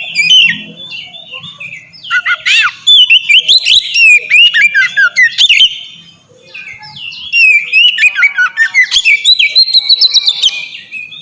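Oriental magpie-robin (kacer) singing loudly in the open 'ngeplong' style: a varied run of quick whistled notes and rapid trills, broken by a short pause about six seconds in before the song resumes.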